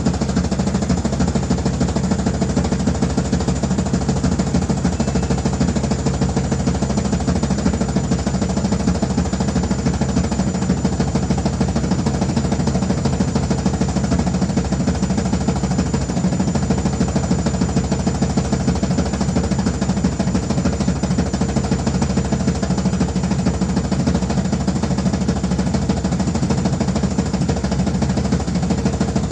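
Noisy washing machine running, a loud steady machine drone with a fast rattling vibration that never lets up.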